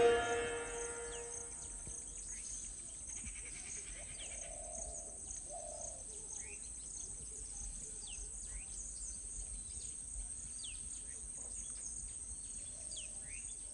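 Insects trilling in a steady high-pitched drone, with many short, scattered bird chirps. The last note of sitar music dies away in the first second or so.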